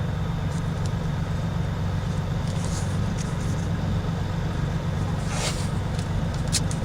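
Steady low hum of an idling motor vehicle engine. About five seconds in comes a short hiss of an aerosol spray-adhesive can, and a brief second hiss follows near the end.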